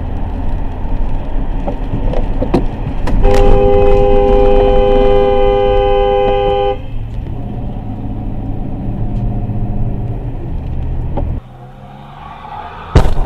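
A car horn held for about three and a half seconds, starting about three seconds in, over a steady low road rumble. A few sharp knocks sound around it, and the rumble drops off suddenly near the end.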